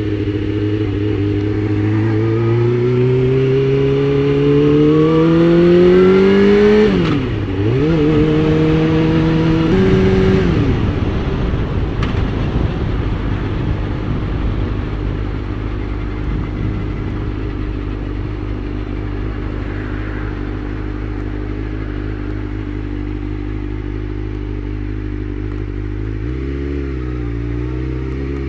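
Suzuki GSX-R600 sportbike's inline-four engine rising steadily in pitch as the bike accelerates for about seven seconds. The pitch then drops sharply and the engine runs at a lower, rougher note, settling near the end into a steady low running note.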